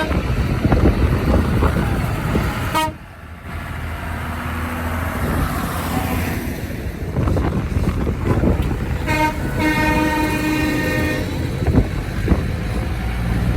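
Tractor engines running as vehicles pass, with a horn tooting briefly about three seconds in and a longer horn toot from about nine to eleven seconds.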